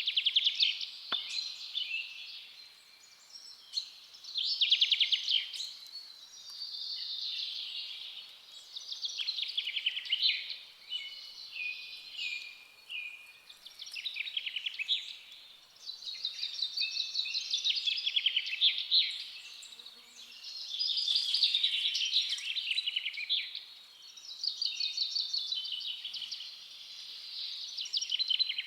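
Forest songbird singing, repeating short high trilling song phrases with brief pauses between them, about ten phrases in all.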